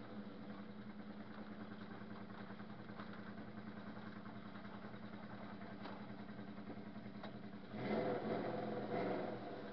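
Drift car's engine idling, heard from inside the cabin, a steady even pulse; near the end it runs louder for about a second and a half, then eases back.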